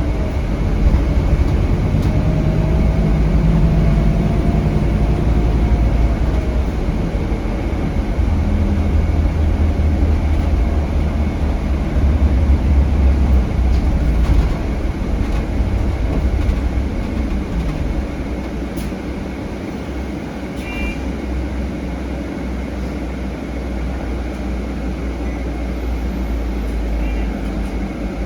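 Scania DC9 five-cylinder diesel bus engine heard from inside the bus, running under load with a deep rumble and a whine that slides down in pitch in the first few seconds. Around two-thirds of the way in its note falls and it settles into quieter running.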